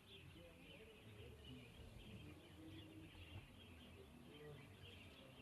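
Faint chirping of small birds, many short, quick calls, over a very quiet background.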